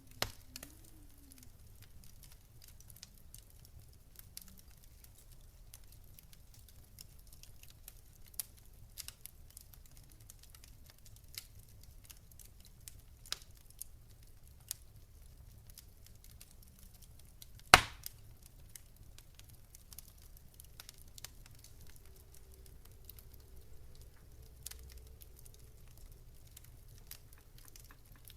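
Wood fire crackling: scattered sharp pops and snaps, with one much louder snap about two-thirds of the way through, over a low steady rumble.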